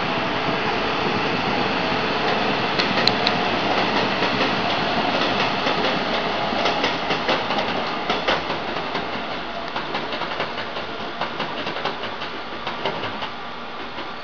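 Passenger train rolling past on the track below, its wheels clattering over the rail joints in quick clicks; the sound fades in the second half as the train runs away into the distance.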